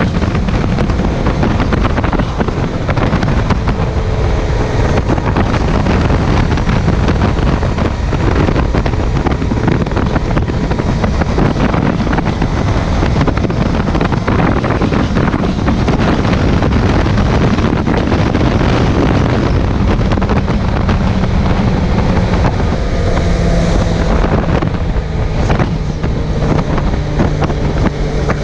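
Wind buffeting a chest-mounted camera microphone on a Suzuki GSX750F motorcycle under way, with the bike's inline-four engine running underneath. From about twenty seconds in the engine's note comes through more clearly and eases slightly lower.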